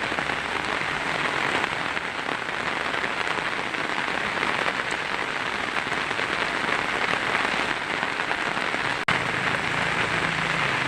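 Heavy rain drumming steadily on a tin roof, with a dense, even patter. There is a brief break with a click about nine seconds in.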